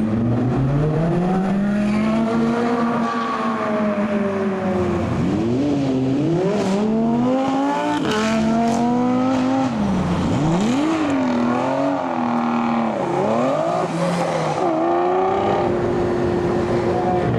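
Supercar engine revving hard, its pitch climbing and falling again and again in quick rises and drops, then holding a steady note near the end.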